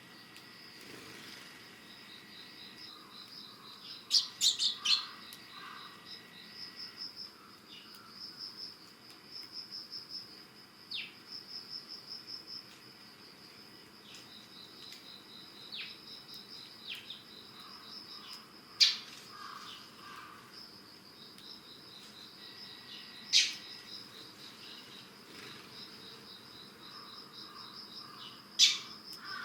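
Eurasian tree sparrows chirping, with a loud cluster of sharp chirps about four seconds in and single loud chirps later on, over the steady, pulsing high trill of singing insects in early autumn.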